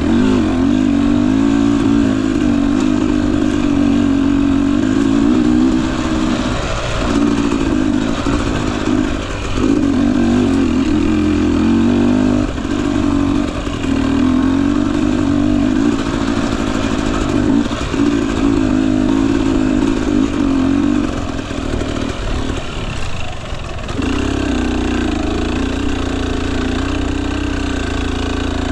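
Husqvarna TE250i two-stroke dirt bike engine running at low revs on and off the throttle, its note wavering and dropping away briefly several times, then easing back toward idle for a few seconds before picking up again near the end.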